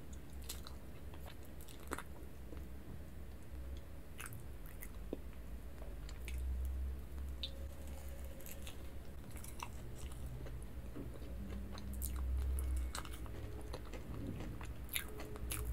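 Close-miked chewing and biting of a soft white mochi, with scattered sharp wet mouth clicks.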